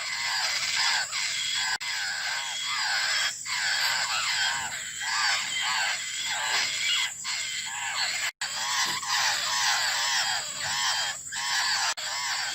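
Young laughingthrushes begging for food: a continuous run of short, rapidly repeated calls that rise and fall in pitch and overlap one another, cutting out for an instant about eight seconds in.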